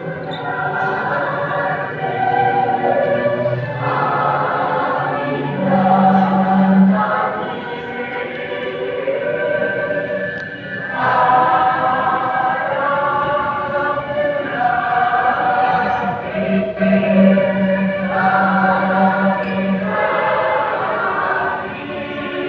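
Choir singing slow, held chords that change every second or two.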